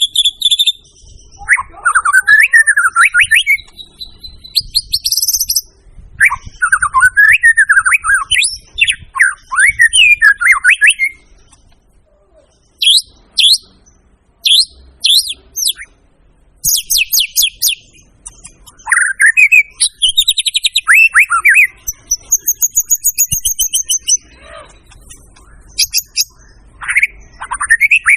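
White-rumped shama (murai batu) singing in full voice: loud, varied phrases of rich warbled whistles, sharp high notes and rapid trills, in bursts broken by short pauses.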